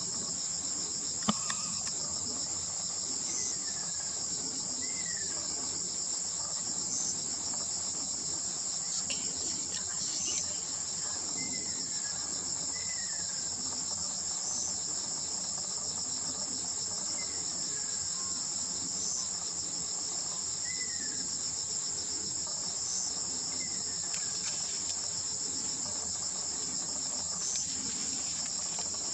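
A steady, high-pitched insect chorus that runs without a break. Faint whistled calls of a Ryukyu ruddy kingfisher, each falling in pitch, come every few seconds, and there is one sharp click about a second in.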